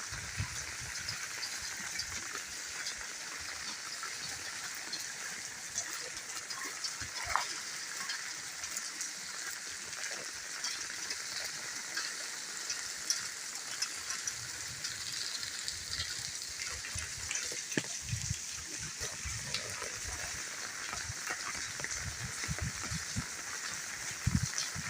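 Steady rain falling: an even hiss with fine crackling patter.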